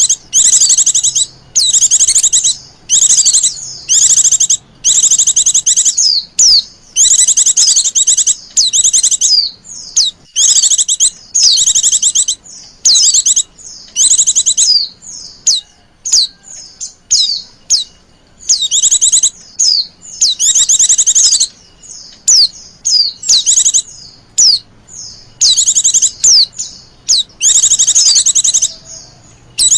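Female white-eye (pleci) giving high-pitched, rapid chattering chirps in short bursts of about half a second to a second, one after another with brief gaps. These are the coaxing calls used to lure male white-eyes.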